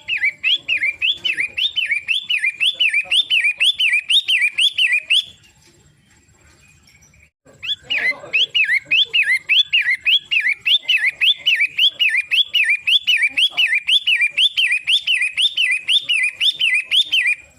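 Pentet matahari (long-tailed shrike) calling in fast runs of repeated rising-and-falling notes, about four a second: one run of about five seconds, a pause of about two seconds, then a longer run of about ten seconds.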